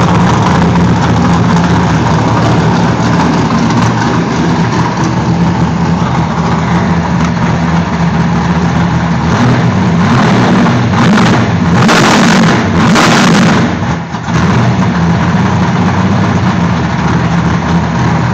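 545-cubic-inch big-block Ford V8 in a race Mustang running loudly and steadily on its first startup, with a few short bursts of louder noise about ten to thirteen seconds in.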